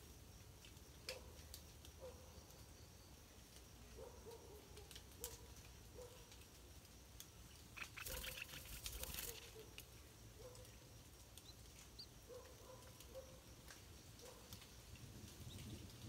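Faint rain sounds: scattered ticks of drops dripping on leaves, with soft short peeps. About eight seconds in, a second-long rustle and flutter of feathers as the brooding stripe-throated bulbul shifts and turns on her nest.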